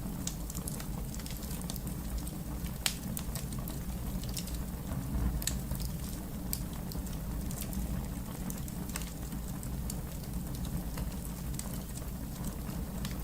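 Wood fire crackling: a steady low rumble of burning with scattered sharp pops and snaps, one louder snap about three seconds in.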